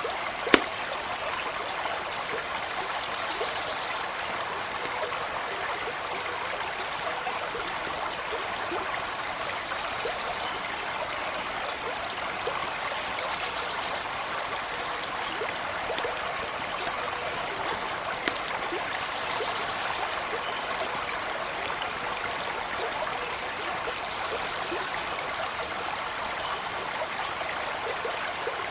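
Stream running steadily, with a campfire crackling over it in scattered sharp pops, the loudest about half a second in.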